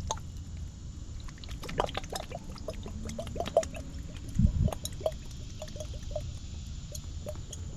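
Scattered light clicks and clinks of stones and glass shards shifting in a dry creek bed, with one dull thump about four and a half seconds in.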